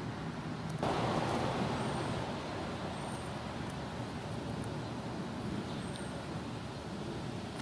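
Road traffic noise: a steady rush of passing vehicles that swells about a second in, with a few faint, short high chirps now and then.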